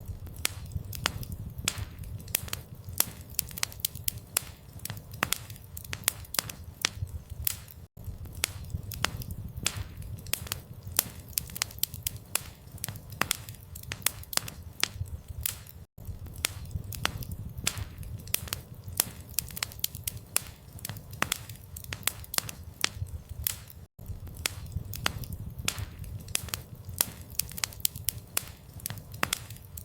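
Campfire crackling: dense, irregular sharp pops and snaps from burning wood over a low rumble of flame, with a brief gap about every eight seconds.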